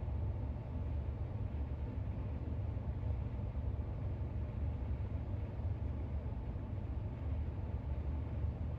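Steady low background rumble with a faint hiss, unchanging throughout and with no distinct clicks or page sounds.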